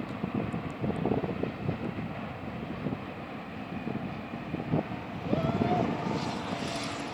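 Union Pacific intermodal freight train running through the curve, a steady low rumble with gusts of wind on the microphone. A short rising whine comes about five seconds in.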